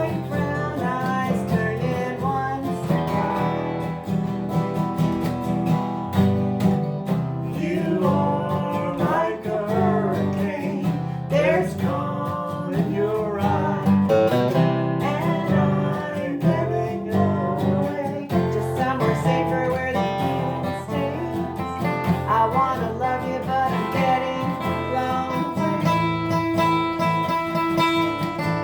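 Acoustic guitar strummed in a live song performance, with a voice singing over it.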